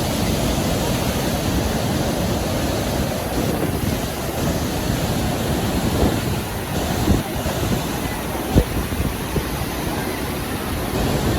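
Steady rushing roar of Niagara Falls, with wind buffeting the microphone and a few brief low thumps in the second half.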